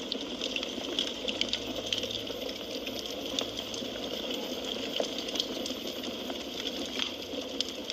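Firewood burning in a fireplace: a steady hiss with frequent sharp crackles and pops.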